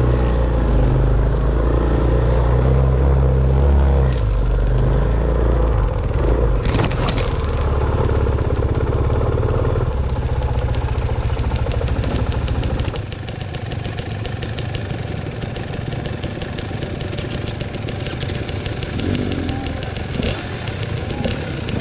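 Dirt bike engine running on a trail ride, with clatter over it. About 13 seconds in the engine note drops and the sound gets quieter, with a fast run of ticks.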